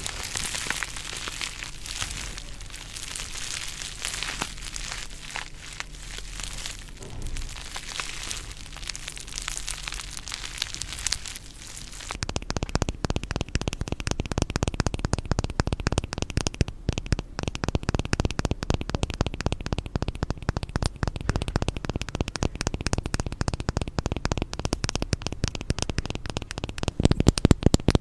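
Close-miked ASMR rubbing and scratching with no talking: a fine, high crinkling scratch, which about twelve seconds in changes to a louder, dense run of rapid scratchy clicks.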